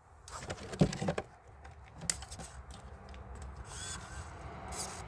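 Handling noise: scattered clicks, knocks and rubbing as the Kyosho Blizzard nitro RC is readied, with its engine not yet running.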